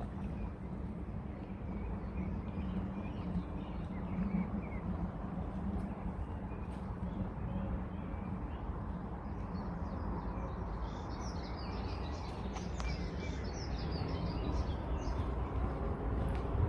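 Small birds chirping and calling over a steady low outdoor rumble, the chirping getting busier in the second half.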